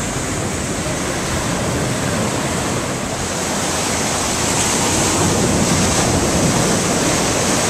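Rough, storm-driven surf breaking on a sandy beach: a steady rush of waves that grows a little louder about halfway through.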